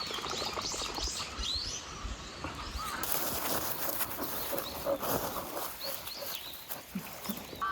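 Small birds chirping in short rising and falling calls, a cluster of them in the first couple of seconds and more around the middle, over a steady hiss.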